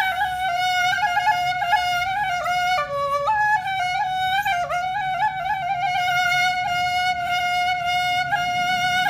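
Instrumental music: a single flute-like wind instrument playing a slow, ornamented melody, mostly holding one note with quick turns, dipping lower briefly around the middle.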